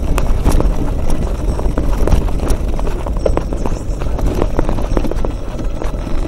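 Mountain bike clattering over a rough trail: irregular knocks and rattles from the bike and tyres over stones, with a heavy low rumble of wind on the microphone.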